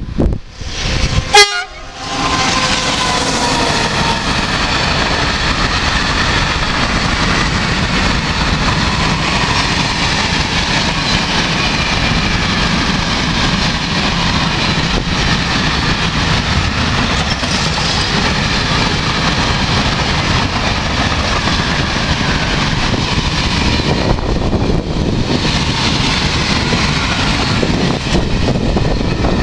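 A short, loud horn blast from an electric freight locomotive about a second in, followed by the steady rolling noise of a long train of hopper wagons passing close, wheels running on the rails.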